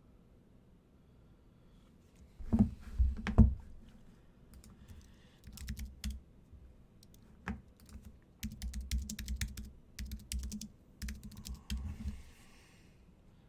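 Typing on a computer keyboard in several bursts of quick key clicks, the longest near the end, with short pauses between.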